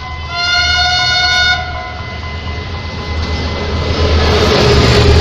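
Train horn sounding one blast of about a second, followed by the rumble and rush of a train passing close by, growing louder over the last couple of seconds.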